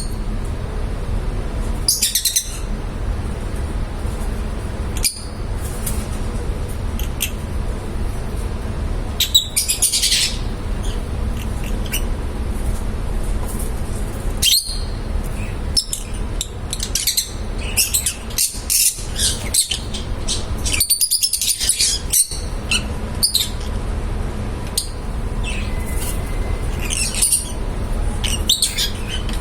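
Pet lovebirds chirping in short, high-pitched bursts, busiest around the middle, over a steady low hum.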